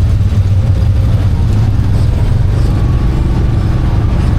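ATV engine running steadily under way: an even low drone with no revving up or down.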